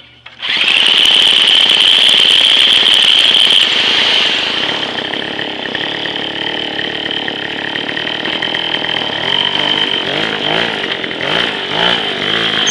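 Gas scooter's small engine catching on a cold start, primed and with the choke on, then running fast and loud. From about ten seconds in, the engine speed rises and falls with the throttle.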